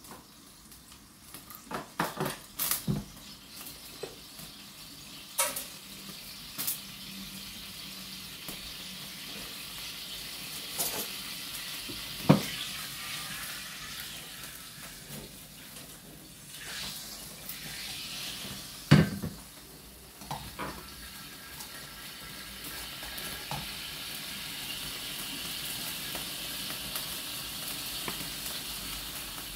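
Dishes and cutlery clink and knock now and then over a steady hiss that grows slightly louder toward the end, with two sharper knocks about 12 and 19 seconds in.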